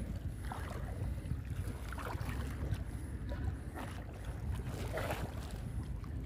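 Wading through thigh-deep swamp water: irregular swishes and splashes several times, over a low rumble of wind on the microphone.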